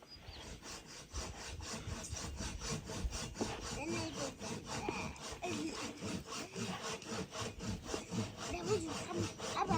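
Rhythmic rasping strokes, about four a second, kept up steadily.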